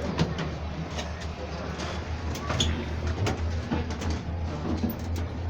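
A steady low hum with scattered knocks and clicks, typical of movement and handling inside an aircraft cabin, with faint voices of other people in the background.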